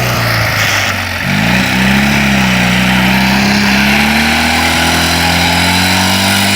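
Ural sidecar motorcycle's flat-twin engine under hard throttle: the revs climb sharply about a second in, then hold high and steady with a slowly rising pitch.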